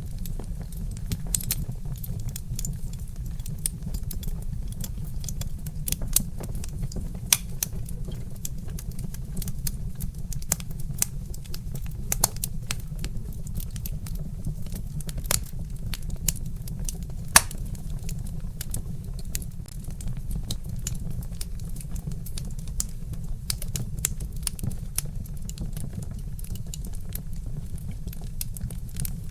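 Wood fire crackling: irregular sharp pops and snaps, one standing out about 17 seconds in, over a steady low rumble.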